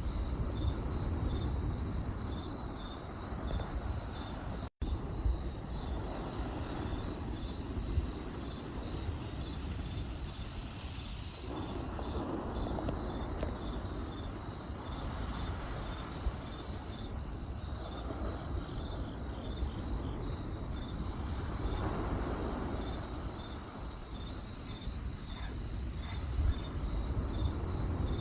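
Crickets chirping in a fast, even pulse over a campfire's low steady rumble with a few sharp crackles. The sound cuts out for an instant about five seconds in.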